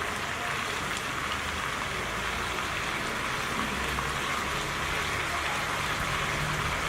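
Food frying in oil in a hot pan: a steady, even sizzle.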